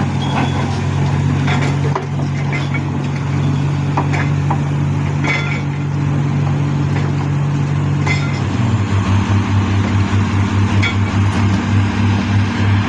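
Heavy diesel engine running steadily under load. About eight and a half seconds in, its note drops and begins to pulse rhythmically. Scattered sharp metallic clicks sound throughout.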